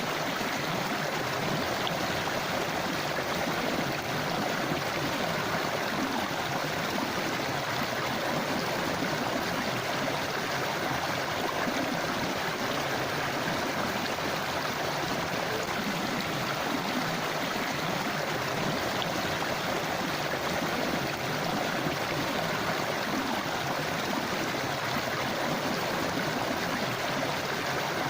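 Forest river flowing steadily, a continuous even rush of running water.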